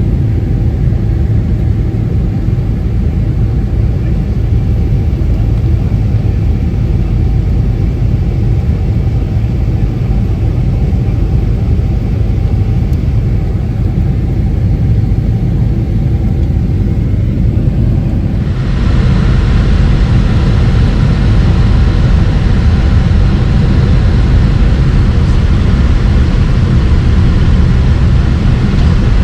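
Boeing 767-300 jet airliner noise: a loud, steady rumble from its General Electric CF6 engines and the rushing air. About two-thirds of the way through, the hiss suddenly jumps louder and stays there.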